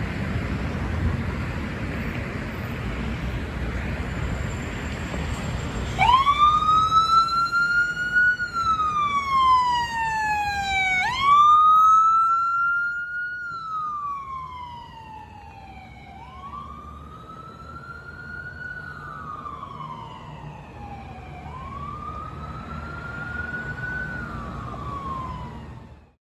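Emergency vehicle siren in a slow wail, its pitch rising and falling about every five seconds. It cuts in about six seconds in over a steady rumble of traffic and wind noise, is loudest for the first several seconds and then fades.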